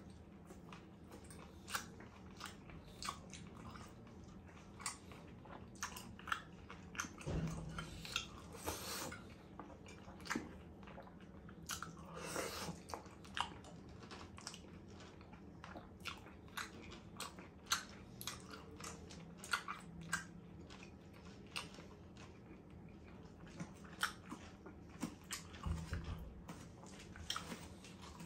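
Close-miked chewing of sirloin steak and mashed potatoes: a steady run of wet mouth clicks and smacks, with a couple of low thumps.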